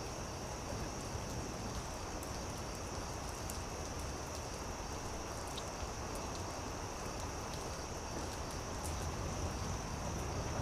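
Campfire crackling: scattered small pops over a steady low hiss, with a steady high chirring of insects.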